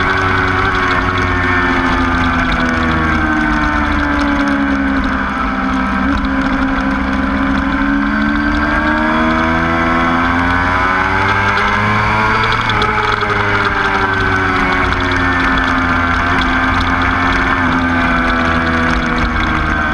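Motorcycle engine at speed on a race track. Its pitch sinks for a few seconds, climbs steadily to a peak about 13 seconds in, then drops sharply as the revs fall, and settles.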